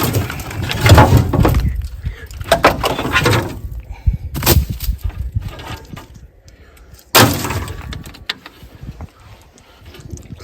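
Clattering and sharp knocks of metal parts and tools being handled during repair work on an old excavator. There is a run of irregular clatter at first, then a sharp knock, then one loud knock about seven seconds in that rings away.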